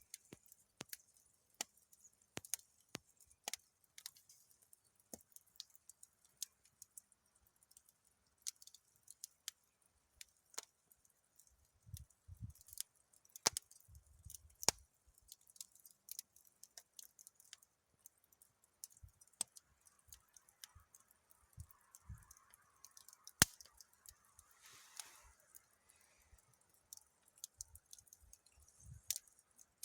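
Wood campfire burning in a barrel, crackling with irregular sharp pops over a faint hiss.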